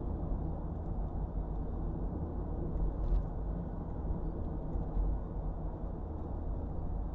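Steady low rumble of a moving car's engine and road noise heard from inside the cabin, with a brief click about three seconds in.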